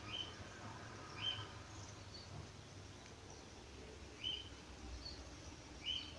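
Faint short bird chirps, about four spread over a few seconds, over a low steady background hum.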